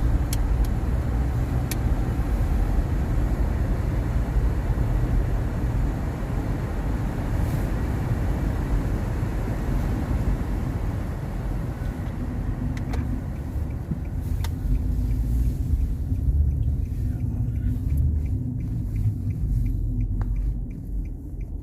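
Car driving on a snow-covered road: a steady low rumble of engine and tyres, with the tyre hiss dying down in the last few seconds.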